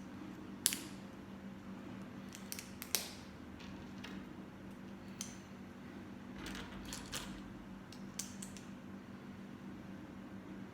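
Lego bricks clicking and clattering as they are handled and snapped together, a few sharp clicks over a steady low hum.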